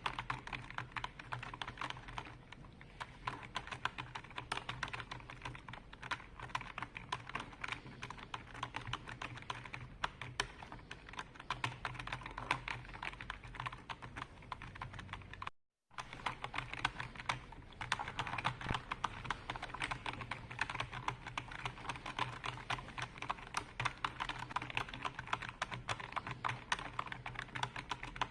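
Continuous fast typing on a computer keyboard: a dense, unbroken stream of key clicks. It cuts out completely for a fraction of a second a little past halfway, then resumes.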